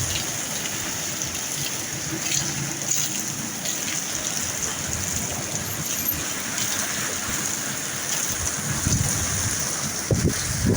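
Steady rain pouring during a storm, an even hiss of falling water. Deeper low rumbles come in near the end.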